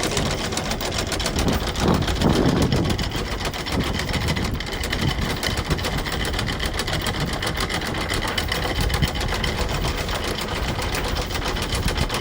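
Boat engine running steadily with a fast, even mechanical rattle.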